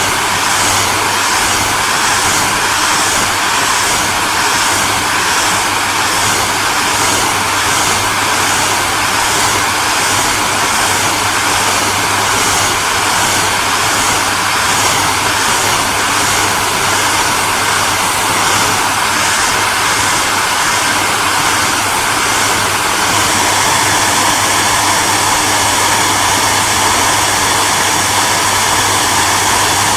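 Electric hairdryer running steadily: a loud airy rush of blown air over a low motor hum. A faint regular flutter in the hiss, a little under two a second, smooths out and the sound grows slightly louder about 23 seconds in.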